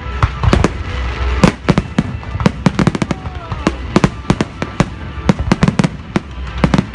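Fireworks display going off in a rapid volley: many sharp bangs and crackles, several a second, over a continuous low rumble.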